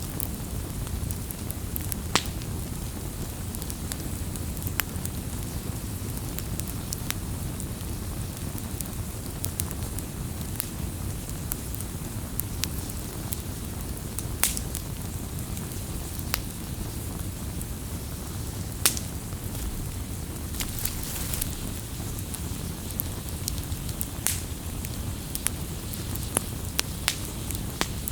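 Wood campfire crackling: irregular sharp pops and snaps over a steady low rumble from the burning fire.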